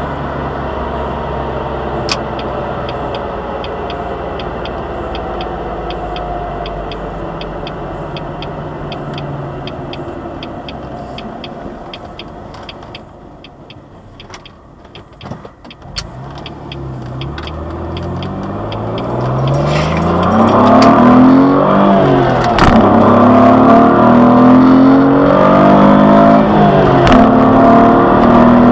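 2003 Jaguar X-Type's 2.5-litre V6 heard from inside the cabin: cruising steadily, easing off to a quiet lull about halfway, then pulling hard at wide-open throttle. The engine note climbs and grows loud, with two upshifts of the five-speed manual breaking the rise near the end.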